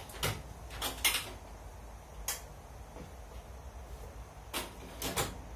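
A handful of short, sharp knocks and rustles of things being picked up and set down on a workbench, spaced unevenly with a few quiet gaps.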